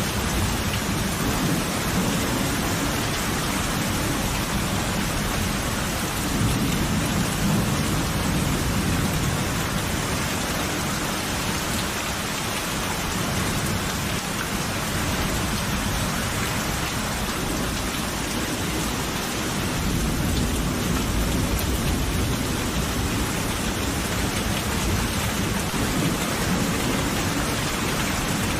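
Steady heavy rain with rolling thunder rumbling low underneath, swelling about a quarter of the way in and again past the middle.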